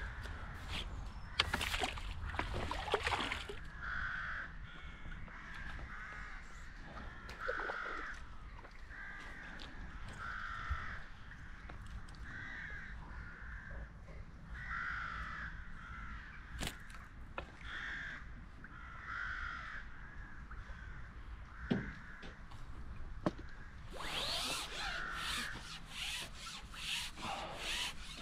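A bird calling over and over in short calls about once a second; near the end a rapid scraping rub takes over.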